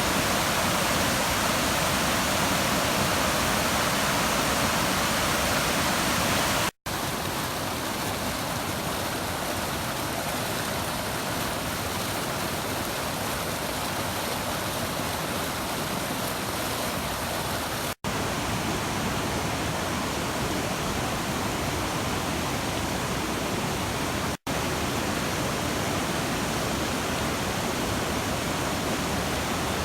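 Steady rushing of white water at the Puntledge River's Nymph Falls. The sound cuts out for an instant three times, its level shifting slightly after each gap.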